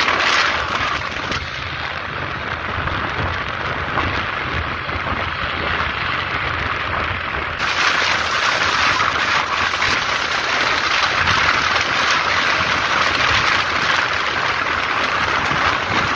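Truck driving on the road: a steady rush of engine, tyre and wind noise, growing louder and hissier about halfway through.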